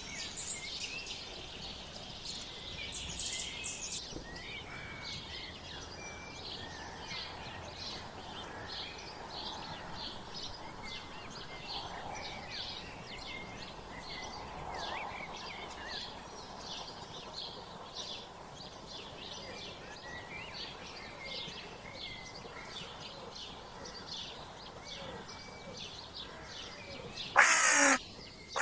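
Songbirds chirping and twittering continuously in a steady stream of short high notes. Near the end a crow caws loudly once.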